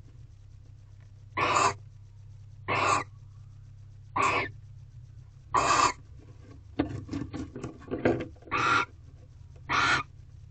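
Barn owl giving short rasping hiss calls, repeated about every second and a half. A run of quick clicks and scratches comes between the calls about two-thirds of the way through, over a steady low hum.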